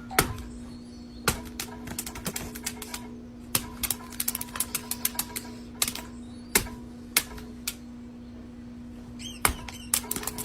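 Many sharp clicks and taps at an irregular pace, some in quick runs, over a steady hum, with a short high squeak about nine seconds in.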